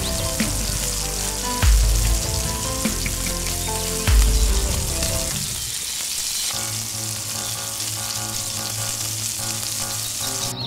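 Crab pieces sizzling as they fry in hot oil and masala in a miniature clay pot, stirred with a small spoon, with background music.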